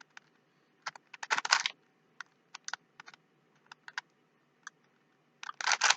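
A Rubik's Cube being twisted by hand: irregular plastic clicks and clacks as its faces turn, with quick runs of turns about a second in and again near the end.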